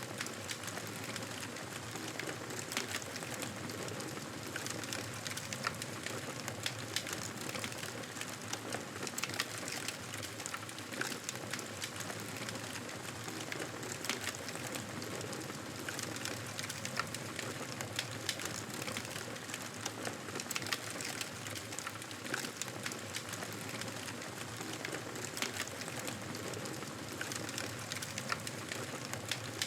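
Wood fire crackling in a fireplace: a steady hiss with frequent small snaps and pops.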